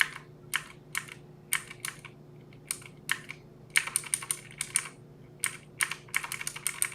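Typing on a computer keyboard: scattered single keystrokes, then quicker runs of keys about four seconds in and again near the end, over a faint steady hum.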